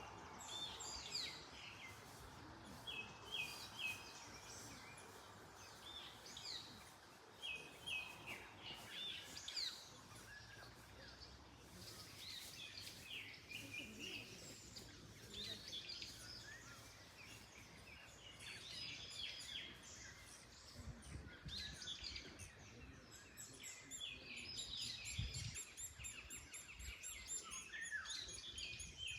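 Several wild birds singing and chirping, short whistled notes and quick repeated phrases, over a faint steady hush of wind in trees.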